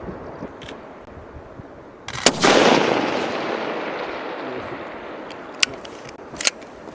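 A single sniper-rifle shot about two seconds in, its report rolling away in a long echo that fades over about three seconds. A few short sharp clicks follow near the end.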